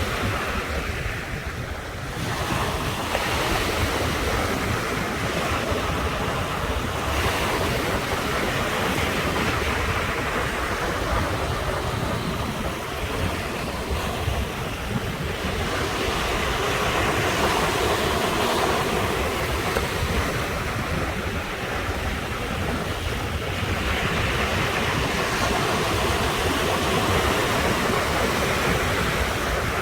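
Ocean surf: waves breaking and washing ashore in a continuous rush that swells and eases every several seconds.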